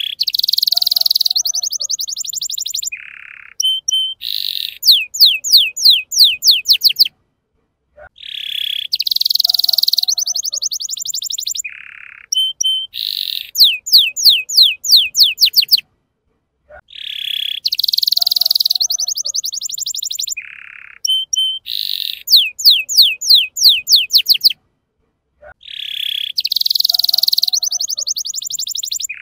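Young male canary singing: a buzzy, rattling trill followed by a fast run of about ten sharply falling whistled notes, the same phrase repeating about every nine seconds with short pauses between.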